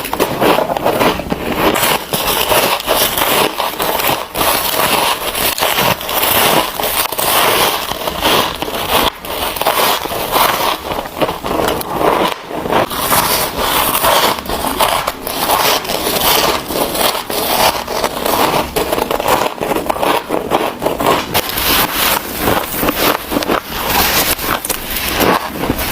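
Freezer frost being bitten and chewed close to the microphone: a dense, continuous run of crisp crunches and crackles.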